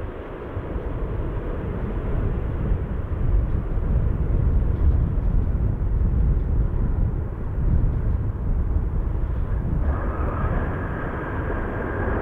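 Jet airliner engines rumbling loudly as the aircraft passes, building to a peak around the middle. About ten seconds in, a steady high engine whine joins the rumble.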